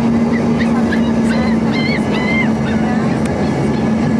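Cabin noise inside an Embraer 145 regional jet: the steady rush of its Rolls-Royce AE 3007 turbofans and airflow with a constant low hum. A few short, high-pitched voice-like sounds come in about half a second in and end near the three-second mark.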